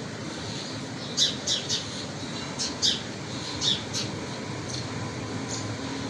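Small birds giving short, sharp, high chirps in quick runs of two to four, sparser towards the end, over a faint steady hum.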